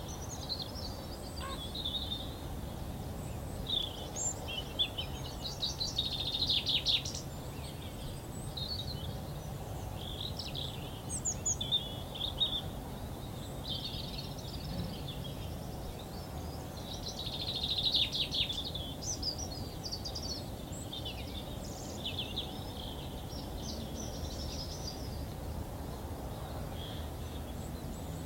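Songbirds singing in short, quick, high phrases every second or two, the loudest around a quarter and two thirds of the way through, over a steady low background rumble.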